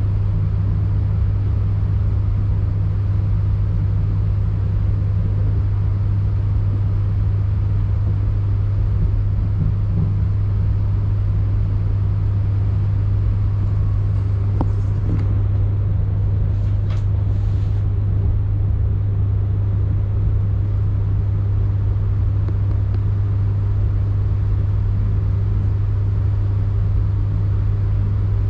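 A train standing at its terminus with its machinery running: a steady, loud, low hum that does not change, with a few faint clicks about halfway through.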